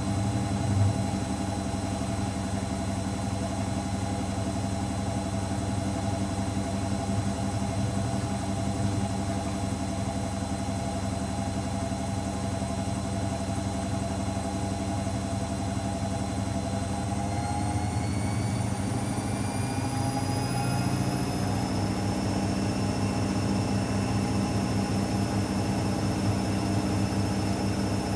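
AEG Electrolux Lavamat L74810 washing machine drum spinning with a steady motor hum and whine. About two-thirds of the way through, the motor whine rises in pitch as the drum speeds up, then holds steady at the higher speed.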